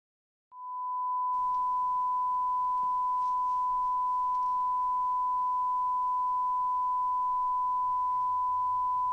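A steady 1 kHz sine test tone, the kind of reference tone laid at the head of a video, starting about half a second in over faint hiss.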